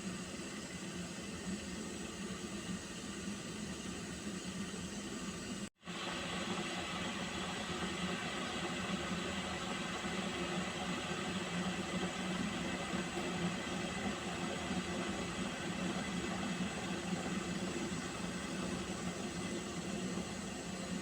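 Pot of water heating on the stove, giving a steady hiss with a low hum under it. It drops out abruptly for an instant about six seconds in, then carries on slightly louder.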